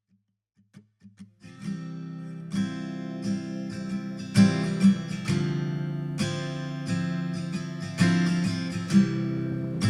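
Background music: an acoustic guitar song intro, a few soft plucked notes at first, then strummed chords filling in after about a second and a half.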